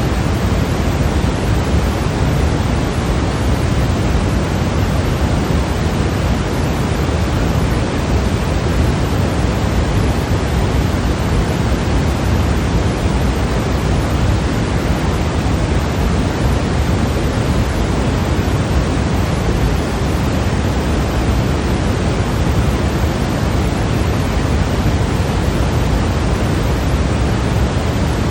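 Continuous, unchanging white noise of the kind played for sleep, heavier in the bass than in the treble, like pink noise.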